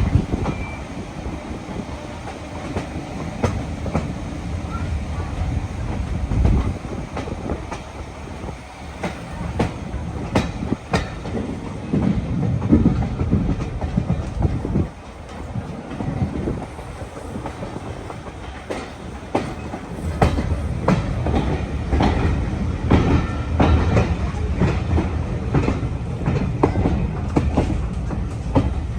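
Train running on jointed track: a steady low rumble with wheels clicking over the rail joints, the clicks coming thicker about ten seconds in and again in the last third.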